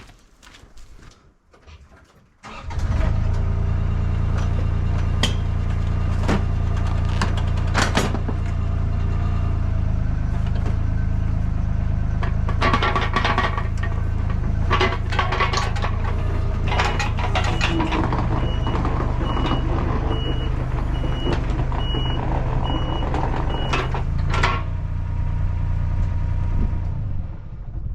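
An engine starts up about two and a half seconds in and runs steadily, with metal clanks over it, then shuts off near the end. For a few seconds near the end of the run a reversing alarm beeps about once a second.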